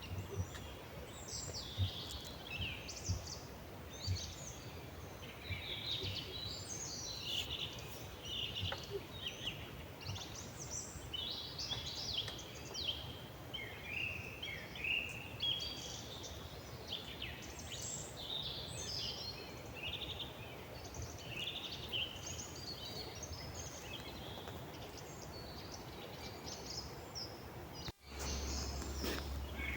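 Several songbirds singing in a forest, their phrases overlapping without a break. Near the end the sound cuts out for an instant and a steady low hum comes in under the birdsong.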